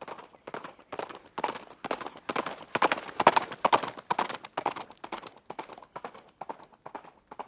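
Horse hooves clip-clopping on hard ground in a steady walking rhythm, about four strikes a second, growing louder to a peak about three seconds in and then fading.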